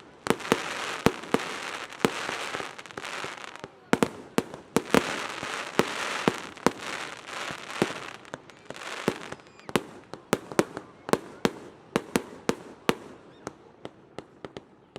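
Fireworks going off: a dense run of sharp bangs over a steady hiss for the first nine seconds or so, then fewer, more spaced-out bangs.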